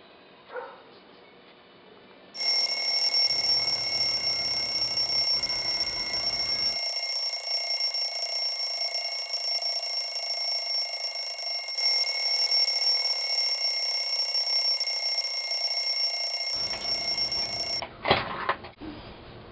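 Alarm ringing, a loud, steady, high-pitched ring that starts about two seconds in, runs for about fifteen seconds and cuts off suddenly: a wake-up alarm going off.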